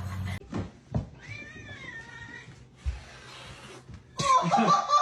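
Cat meowing: a drawn-out meow that bends up and down in pitch about a second in, then a louder, held cry near the end.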